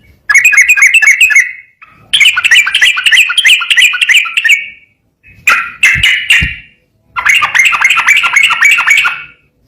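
Yellow-vented bulbul (trucukan) singing loudly in rapid-fire 'ropel' phrases: four bursts of quickly repeated bright chirping notes, about seven a second, with short pauses between them.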